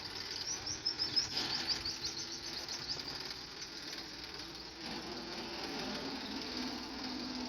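A bird singing a rapid trill of short, falling high notes that lasts about two and a half seconds, over a steady outdoor background with a low hum coming in near the end.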